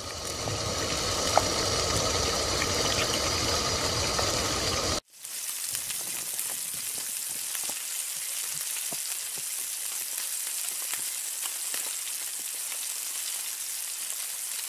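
Butter sizzling in a hot flat iron pan, with a low rumble beneath, cutting off abruptly about five seconds in. A steadier, quieter sizzle with many small crackles follows as chopped onion and cabbage fry.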